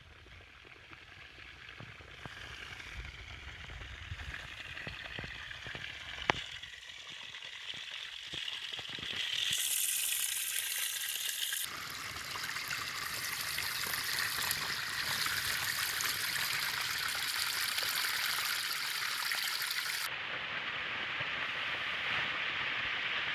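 Steady rushing hiss of running water, growing louder and changing abruptly a few times. A low wind rumble on the microphone sits under it in the first few seconds.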